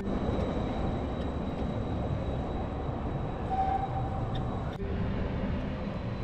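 Steady low vehicle rumble with a faint, steady high whine above it.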